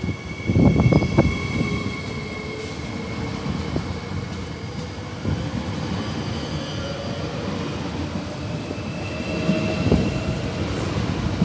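Train running by on the line with a steady high whine over rail noise. A loud, low burst about a second in is the loudest moment.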